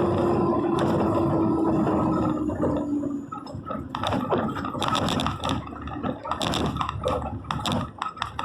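A vehicle engine running, its pitch slowly falling as it slows down, then about three seconds in it gives way to irregular knocks and clattering.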